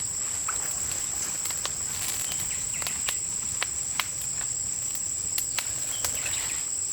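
Steady high-pitched insect chirring, crickets or similar, with scattered sharp clicks and ticks throughout.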